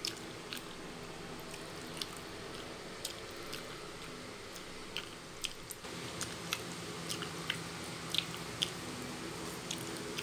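Close-up chewing and mouth sounds of someone eating noodles: wet smacks and sharp little clicks scattered irregularly over a steady low background hum.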